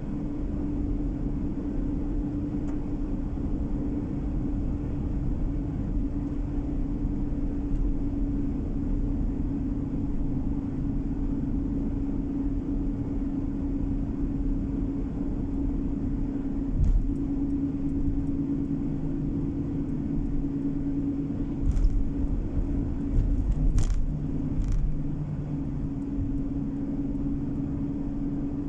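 Steady road and engine noise of a moving car heard from inside the cabin, a low rumble with a constant hum. A few short knocks stand out about halfway through and again a few seconds before the end.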